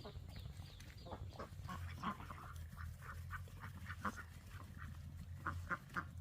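Farm poultry calling in a run of short, repeated calls, over a steady low hum.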